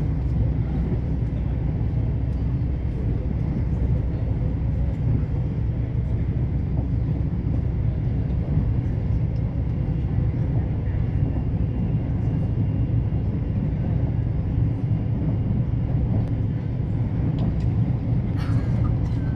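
Passenger train running steadily along the track, a continuous low rumble with a brief clatter of clicks near the end.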